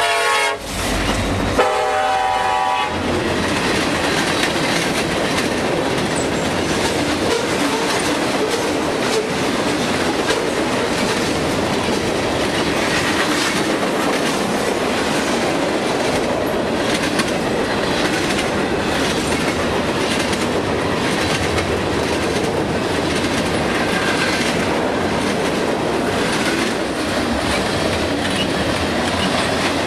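CSX freight train passing close by. The lead diesel locomotive's horn sounds two blasts in the first three seconds, the second lasting over a second. After that comes the steady rumble and clatter of freight cars rolling over the rails.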